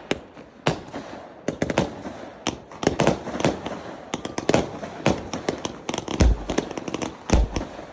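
Fireworks going off: a rapid string of sharp bangs and crackling, with a couple of deeper booms near the end.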